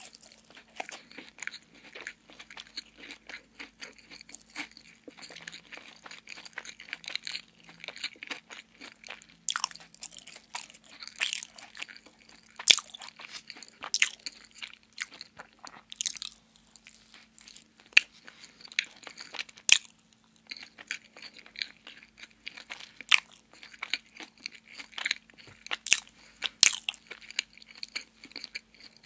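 Bites and chewing of a donut close to the microphone, with many sharp, sticky mouth clicks and crackles.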